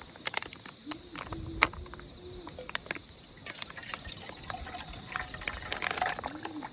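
Steady high-pitched chorus of crickets and other night insects, with scattered clicks and one sharp tap about a second and a half in.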